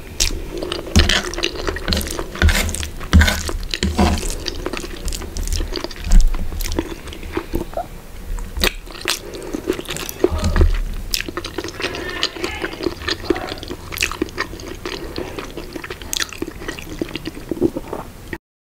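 Close-miked chewing of spaghetti carbonara and sausage: wet, sticky mouth sounds with many small clicks and smacks. The sound stops abruptly near the end.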